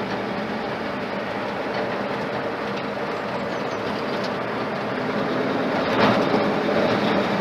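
Ford flathead engine pulling a truck along at a steady road speed, heard from inside the cab together with road noise, growing slightly louder about six seconds in. The engine is freshly built and still being run in.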